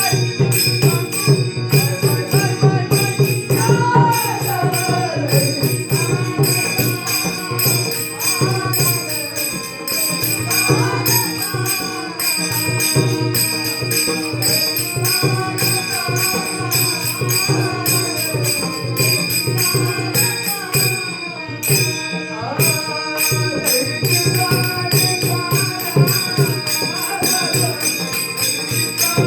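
Marathi Varkari bhajan: a singer's devotional melody over a steady rhythm of small hand cymbals (taal), with low drum beats underneath. The cymbals stop briefly about three quarters of the way through, then resume.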